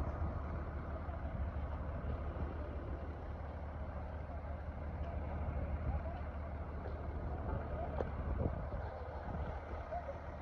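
Street ambience: a steady low rumble of vehicle traffic on the road.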